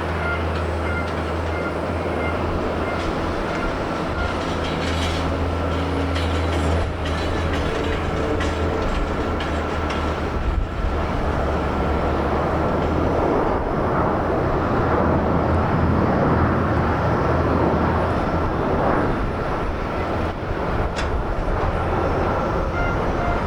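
Jet airliner on approach to land: broad engine noise that builds to its loudest around the middle, with a steady high whine running through it.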